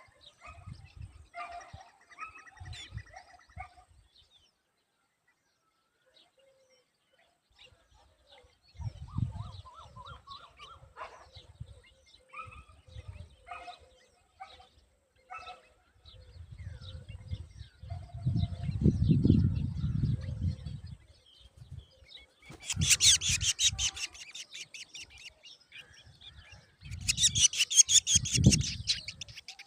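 Scattered short bird chirps, with dull low thumps at intervals. Later come two loud bursts of rapid, rasping bird calling, the first about two-thirds of the way in and the second near the end.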